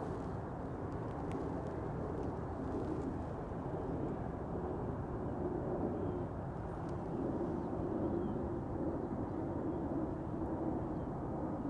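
Steady low rumble of distant engine noise, growing slightly louder, with a few faint bird chirps in the second half.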